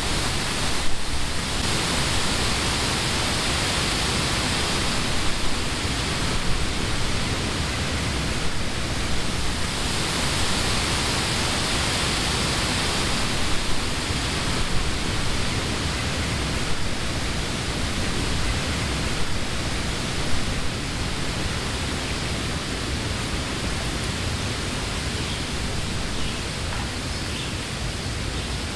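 Summer wind blowing through leafy trees: a steady rushing of leaves that swells with gusts now and then, over a low rumble.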